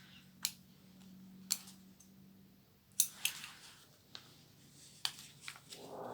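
Scissors snipping through a parcel's paper packaging, about seven sharp snips at uneven intervals, with paper rustling around the middle.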